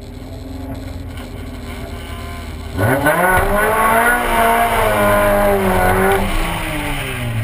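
Car engine running low at first, then accelerating hard about three seconds in, its pitch climbing; the revs fall back near six seconds.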